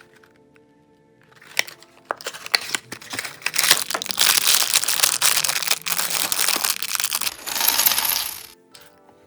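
Loose plastic LEGO pieces clattering and rattling against one another: a few scattered clicks about a second in, building to a dense, continuous rattle of small clicks that stops suddenly near the end. Background music plays under it.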